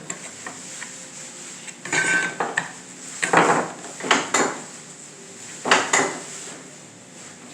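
A series of separate clinks and knocks of small hard objects being handled on a work surface, about seven in all, one ringing briefly.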